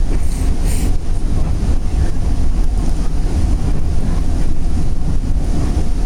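Steady low rumble of a Northstar commuter train running at speed, heard from inside the passenger car: wheels rolling on the rails and the car's running noise.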